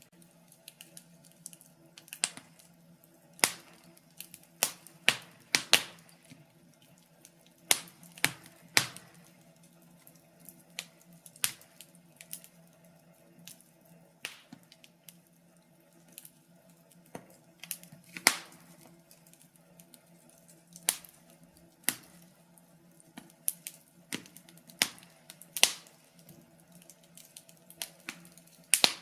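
Wood fire crackling in a fireplace: irregular sharp pops and snaps, sometimes in quick clusters, sometimes a second or more apart, over a faint steady hum.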